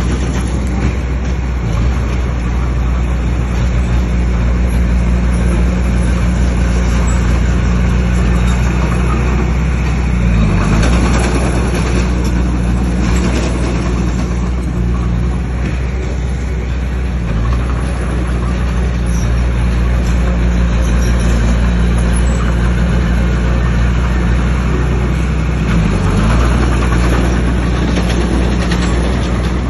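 Bulldozer's diesel engine running steadily and loud, its pitch dipping briefly about three times.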